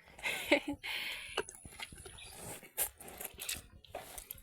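Calf at a water bucket: irregular slurping and breathing noises with a few sharp knocks against the bucket.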